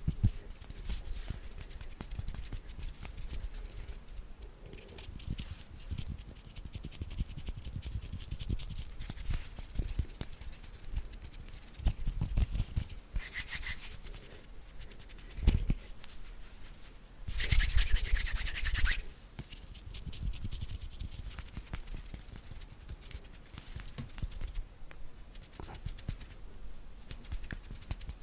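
Hands rubbing together close to the microphone, a dry continuous rustling, with two louder, quicker bouts of rubbing, one about halfway through and a longer one a few seconds later.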